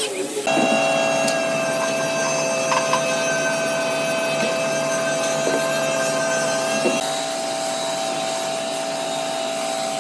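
Electric power tool running steadily on wood with a constant whine. It starts about half a second in, and its pitch drops a little about seven seconds in, with a few light knocks along the way.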